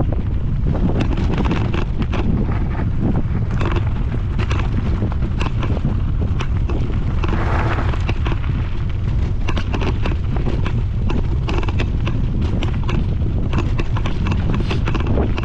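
Strong wind buffeting the camera microphone: a loud, constant low rumble with crackling, swelling briefly about halfway through.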